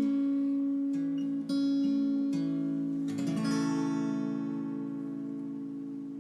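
Acoustic guitar playing the closing notes of a slow ballad: a few single plucked notes, then a strummed chord about three seconds in that rings on and slowly fades.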